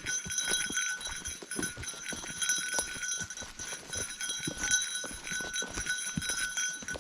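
Footsteps crunching through wet forest undergrowth and sticks, with a small bear bell jingling in time with the walking.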